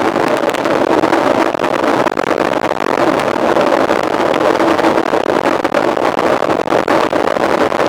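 Steady rushing noise of a mountain bike being ridden, with wind on the microphone and tyres on the trail, scattered with small clicks and rattles from the bike.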